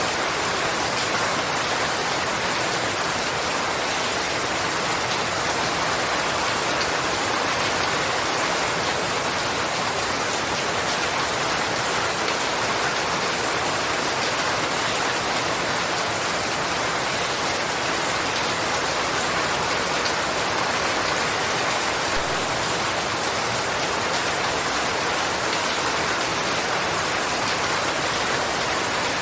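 Steady, even rain falling, a dense hiss without distinct drops, unchanging in level.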